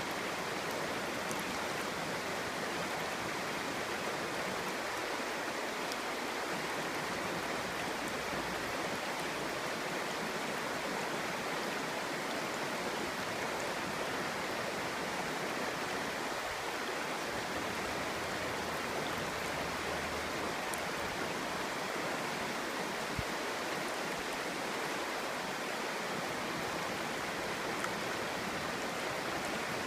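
Clear stream flowing: a steady, even babble of water over rocks.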